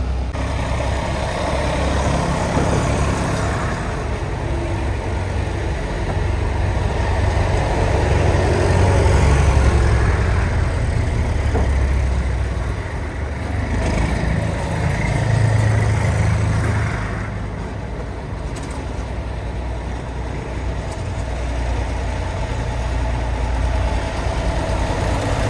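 Tractor engines running steadily on a road, getting louder and softer several times.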